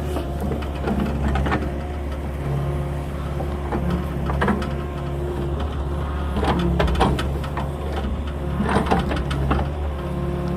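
Small farm excavator's engine running steadily, with a humming tone that comes and goes as it works and a series of knocks and clatters, the most around the middle and near the end.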